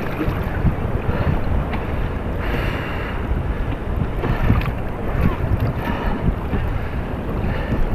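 Wind buffeting the microphone over surf, with waves washing around a sea kayak in swells.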